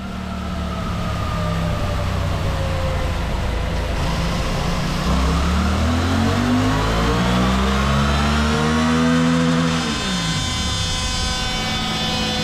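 Suzuki GSX-8S 776 cc parallel-twin engine heard onboard. Its revs sag at first, then climb steadily under throttle from about five seconds in, drop sharply as the throttle shuts a little before the end, and settle to a steady pitch.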